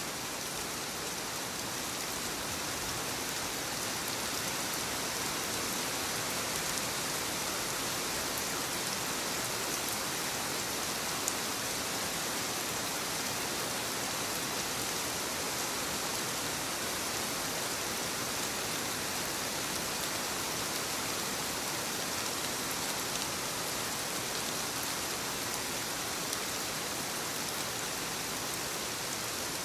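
Light rain falling steadily on leaves, an even patter of raindrops with no change through the stretch.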